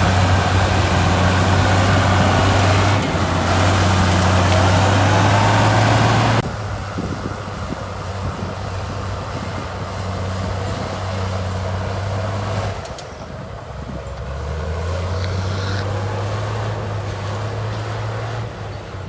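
Heavy diesel engine of an earthmoving machine running steadily with a low drone, a harsh hiss over it for the first six seconds that cuts off suddenly; the engine then goes on more quietly, dipping and picking up again about two-thirds of the way through.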